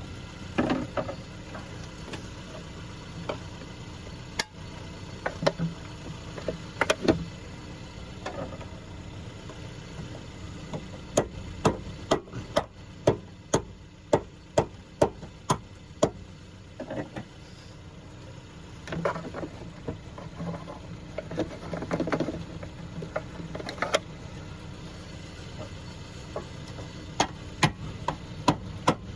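Sharp hand-struck knocks and taps of a nail being driven or stabbed into something, irregular at first and then in quick runs of about two a second around the middle and near the end, over a steady low hum.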